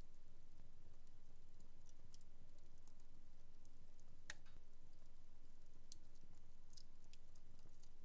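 Wood fire in a home fireplace crackling: scattered small pops, the sharpest about halfway through, over a faint steady low hum.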